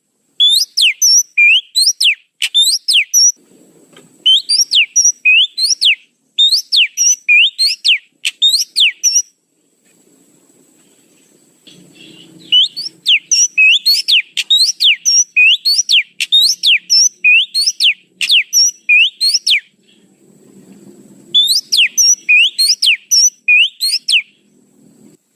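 Oriental magpie-robin (kacer) lure call: rapid runs of sharp, high whistled notes, about three or four a second, each note sweeping up then down, in bursts of a few seconds broken by short pauses.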